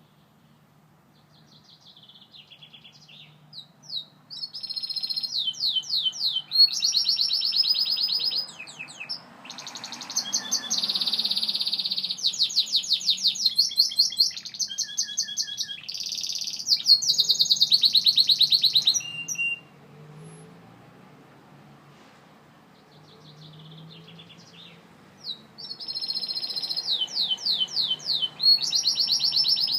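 Gloster canary singing: long runs of rapid, high trills and rolls that break off for several seconds past the middle, then start again near the end.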